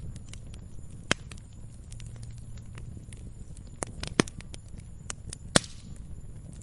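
Wood log fire crackling: scattered small snaps over a low steady rumble, with a few sharper pops, the loudest about four and five and a half seconds in.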